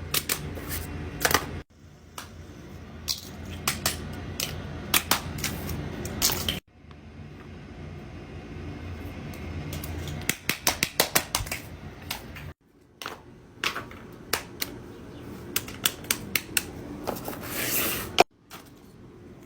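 Hands working fidget toys and craft materials: irregular runs of sharp clicks and taps over a low hum. The sound changes abruptly about four times as one short clip cuts to the next.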